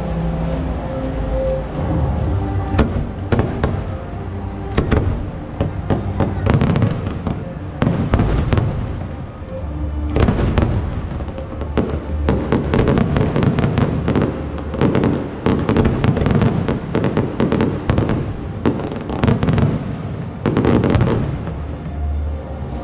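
Aerial firework shells bursting in irregular bangs and crackles. They are sparse at first and come thick and fast from about ten seconds in, over music from the show.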